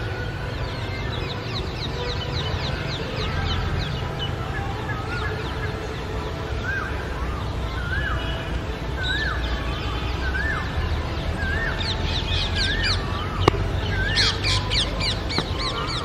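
Wild birds calling in the trees. One bird repeats a short wavering whistled note a little more than once a second through the middle and end, and quick runs of high down-slurred notes come near the start and again near the end, over a steady low rumble. A single sharp click sounds near the end.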